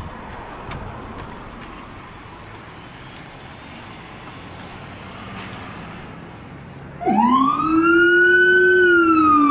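A steady low background noise, then about seven seconds in a loud emergency-vehicle siren cuts in. It wails up in pitch, holds, falls, and starts rising again near the end.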